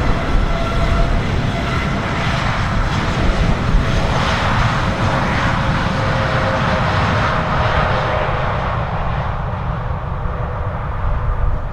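Boeing 787-8 jet airliner's engines at takeoff thrust during the takeoff roll, a steady whine under a broad roar that swells as the aircraft passes about four to eight seconds in, then eases away.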